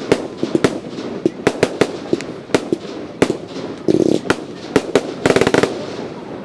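Fireworks going off: an irregular string of sharp bangs and pops, several a second, with a quick run of crackling about five seconds in.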